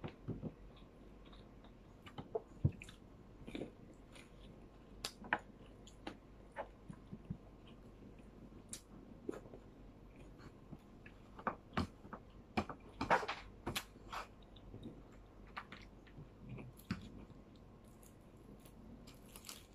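A person chewing and eating with her fingers, with irregular wet mouth smacks and small sharp clicks throughout, busiest about two-thirds of the way through.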